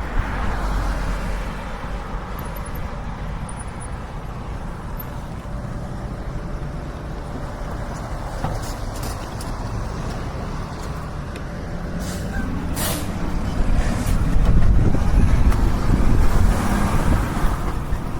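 Wind buffeting an action camera's built-in microphone while riding an e-bike: a steady low rumble that grows louder for the last few seconds, with a few sharp clicks about two-thirds of the way in.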